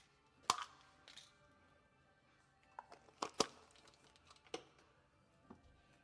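Several sharp clicks and knocks at irregular intervals, the loudest about half a second in and two close together past the three-second mark, over faint background music.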